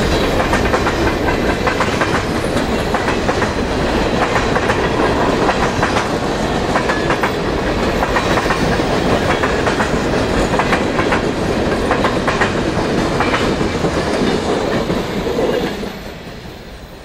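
Boxcars of a Canadian Pacific freight train rolling past, steel wheels clicking and clattering over the rails in a steady clickety-clack with a low rumble. The sound drops sharply near the end to a much quieter background.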